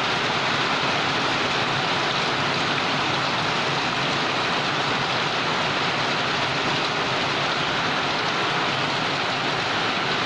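Heavy monsoon-cyclone rain falling steadily in a constant downpour.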